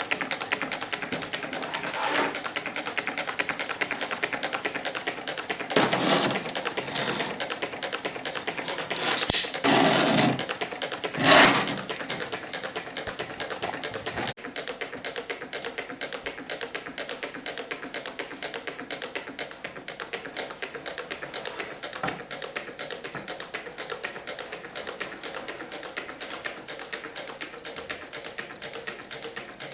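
Meccano Stirling engine running, its metal crank, linkages and gears clattering in a fast, even ticking rhythm. A few louder brief noises break in during the first half, and the clatter is a little quieter after about halfway.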